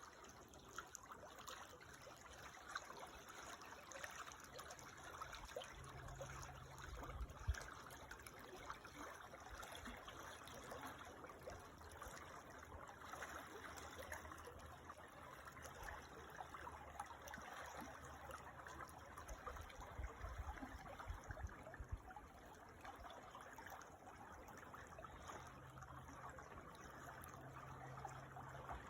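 Creek water trickling steadily over stones, faint and even, with a couple of brief low rumbles partway through.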